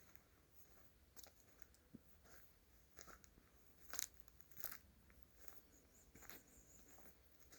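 Footsteps crunching on dry leaf litter of a forest floor: a string of faint, irregular crackling steps, the loudest two a little past halfway.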